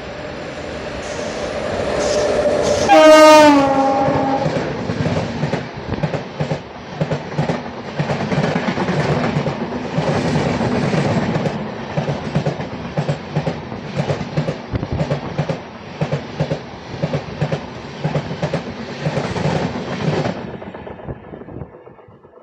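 Train horn blaring once about three seconds in, its pitch dropping as it sounds, then a steady fast clatter of train wheels over rail joints, about two knocks a second, that stops abruptly near the end, as of a train rushing past close by.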